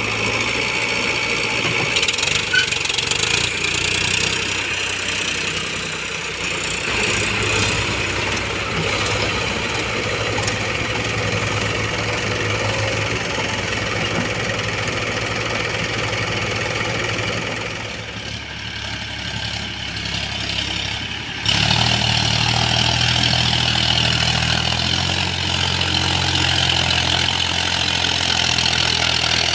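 Heavy vehicle's diesel engine running steadily at a low, even pitch. The engine note changes abruptly about two-thirds of the way through and runs louder after that.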